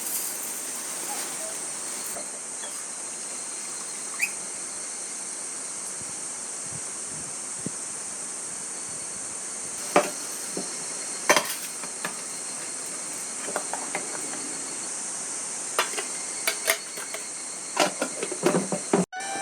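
Steady high-pitched drone of insects, with a few sharp knocks and clicks scattered through the second half.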